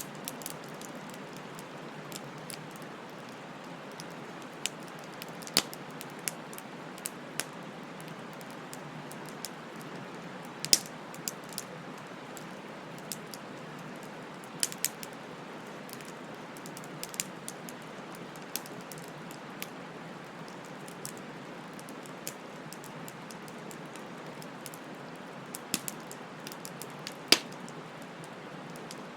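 Wood fire burning: a steady low hiss of flames with irregular sharp crackles and pops from the burning wood, the loudest about 5 s, 11 s and 27 s in.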